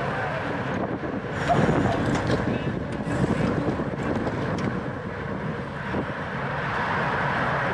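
Steady wind rushing over the microphone, with faint voices mixed in.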